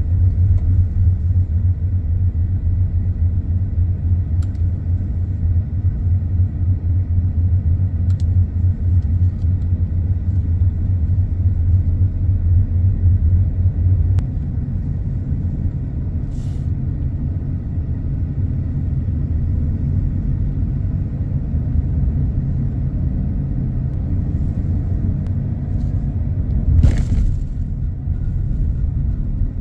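Car driving, heard from the inside: a steady low rumble of tyres and engine on the road, which eases a little about halfway through, with a short louder swish near the end.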